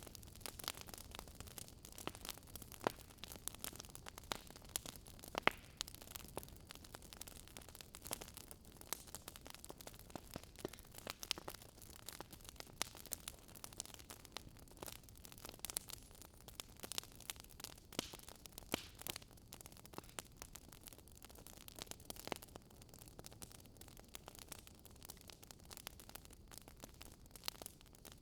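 Wood fire crackling in a fireplace: a steady run of irregular sharp pops and snaps from the burning logs over a soft hiss of flame.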